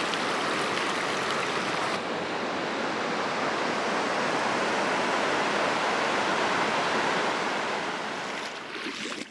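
Valley stream water rushing steadily, dropping away near the end.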